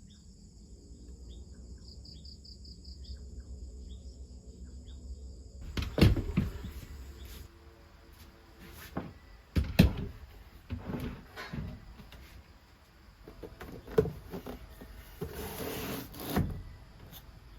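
Several separate knocks and thumps, with a brief scraping rush near the end, as of objects being handled and set down. Faint repeated high chirps can be heard during the first few seconds.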